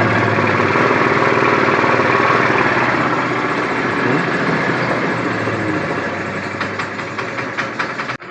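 Italika WS150 scooter's single-cylinder four-stroke engine idling steadily, freshly restarted after its starter bendix was replaced. The sound slowly fades and cuts off suddenly near the end.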